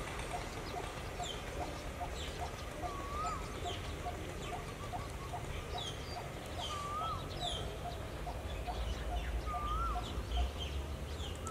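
Birds calling: a short note repeated about twice a second, a wavy whistled call three times a few seconds apart, and scattered high chirps, over a steady low rumble.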